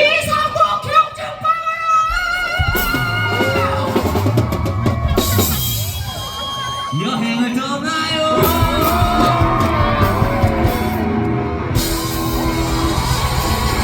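Live rock band playing with drum kit and bass, a voice singing and calling out over it.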